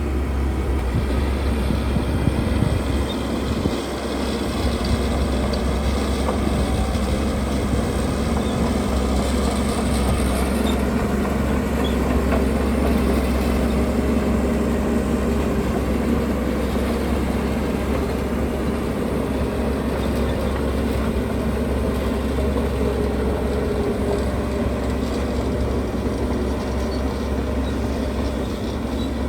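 Diesel engines of heavy earthmoving machinery running steadily under load, with a strong deep low end.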